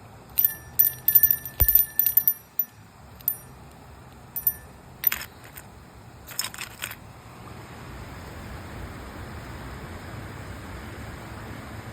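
Scattered sharp, ringing metallic clinks over the first several seconds, then a steady hiss of rain that fills in from about eight seconds in.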